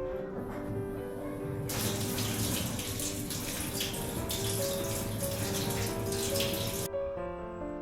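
Water running hard from a tap for about five seconds, starting about two seconds in and cutting off abruptly, over soft background music.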